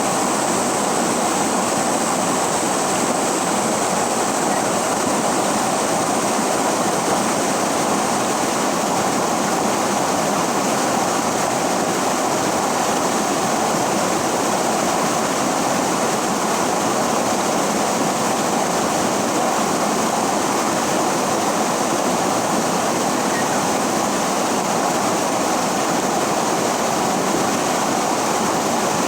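River water rushing steadily over rocks, an even loud rush with no breaks.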